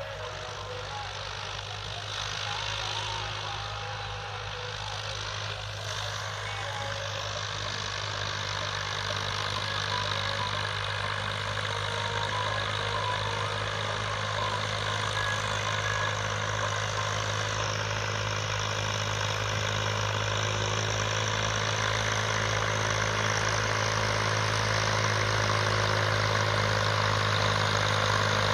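Farm tractor's diesel engine running steadily, growing gradually louder throughout.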